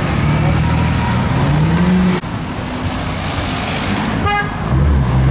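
Car engine accelerating, its pitch rising until it cuts off abruptly about two seconds in. A short horn toot a little past four seconds, then the engine loud again near the end.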